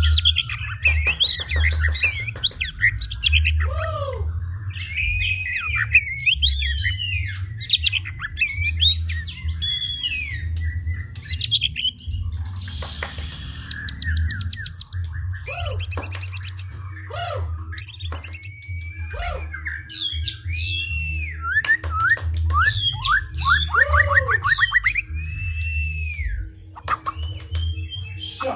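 White-rumped shama (murai batu) singing a long, varied song of clear whistles, rising and falling glides, fast trills and sharp clicks, with hardly a pause.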